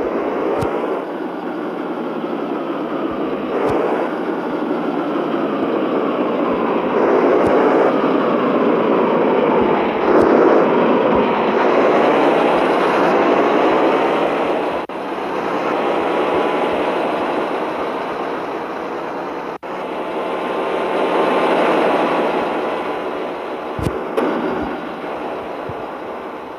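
Mitsubishi Fuso truck's diesel engine running, its pitch slowly rising and falling with engine speed, over a steady rushing noise.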